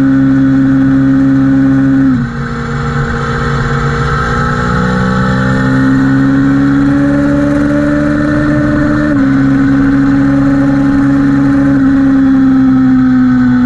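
A high-performance engine accelerating hard at speed, its pitch climbing slowly through each gear, with upshifts about two seconds in and again about nine seconds in.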